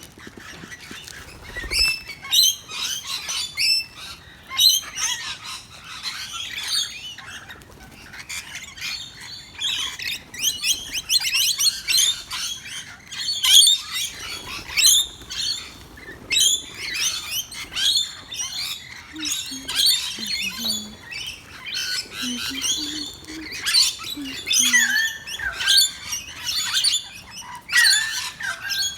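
Several birds chirping and squawking almost without a break, in rapid short high calls, while they feed on seed put out for them.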